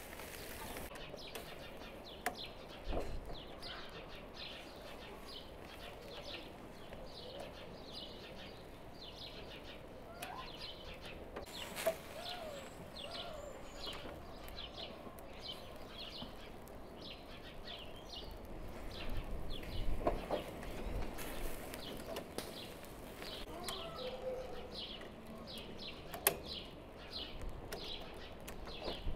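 Small birds chirping over and over, with a few sharp clicks and knocks now and then.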